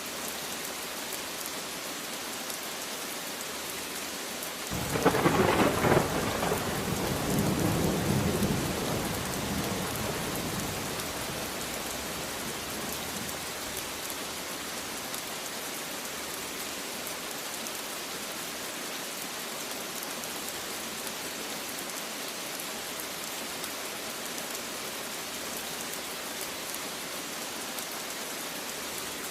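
Steady heavy rain with a single thunderclap about five seconds in: a sharp crack, then a low rumble that dies away over several seconds back into the rain.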